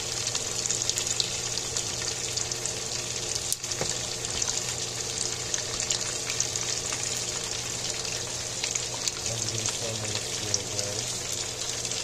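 Chicken thighs frying in shallow oil in a pan: a steady sizzle with dense fine crackling and popping. A steady low hum runs underneath.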